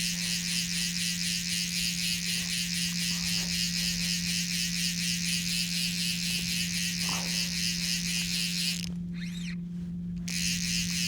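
A steady high-pitched buzz with a fast, even pulse over a constant low hum; the buzz cuts out briefly about nine seconds in.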